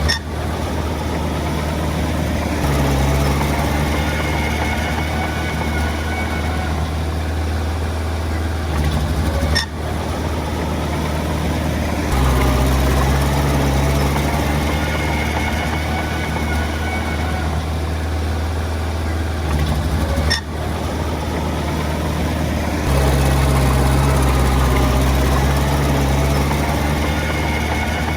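Komatsu D20 bulldozer's diesel engine running steadily, swelling louder three times as it takes load, with two brief breaks in the sound.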